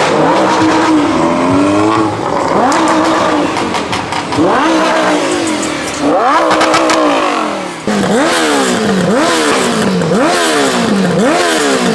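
A car engine revved hard again and again, its pitch climbing and dropping with each rev. About two-thirds of the way through it settles into a quick run of revs, roughly one a second.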